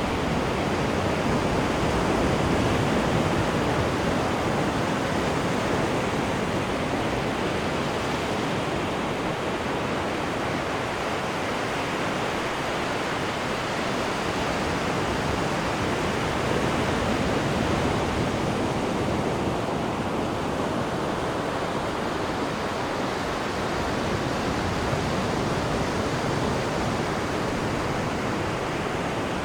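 Wake water churning and rushing behind the stern of a moving cruise ship: a steady wash of noise that swells and eases gently.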